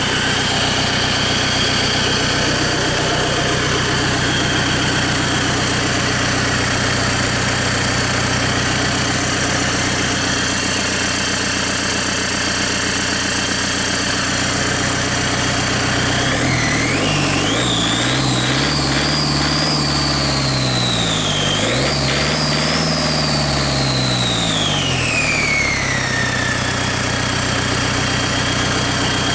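J3 2.9-litre four-cylinder diesel engine running at idle during an oil pressure test. About halfway through it is revved up twice and falls back to idle, with a high whine that rises and falls with the revs.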